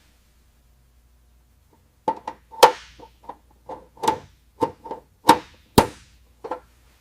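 Near silence, then about two seconds in a run of a dozen or so sharp knocks or strikes at irregular spacing, each with a brief ringing note.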